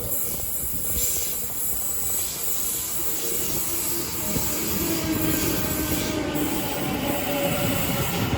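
Electric suburban passenger train running along the platform, its wheels squealing on the rails, with a faint held tone joining in the second half.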